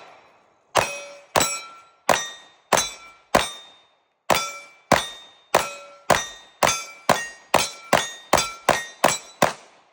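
A string of about seventeen pistol shots, each hitting and ringing a steel target plate. The shots come steadily at first and then faster in the second half.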